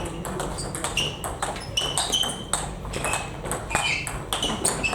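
Table tennis rally: rapid sharp clicks of the celluloid-type ball coming off bats and the table, several a second, with short high squeaks in between.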